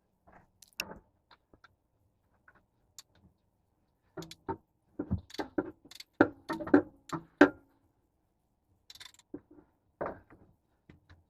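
Irregular metallic clinks and knocks of tools and parts being handled during a repair, coming thickest in a quick cluster partway through.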